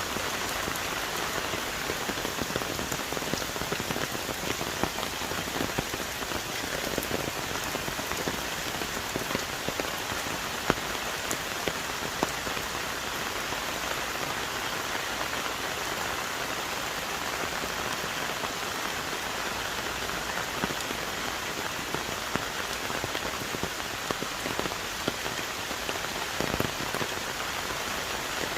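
Heavy tropical rain falling on rainforest trees and leaves: a steady, even downpour with many close drops tapping sharply.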